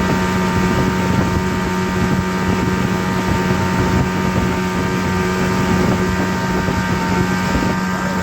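A steady motor drone: one constant hum with a rough, noisy edge, unchanging in pitch and level.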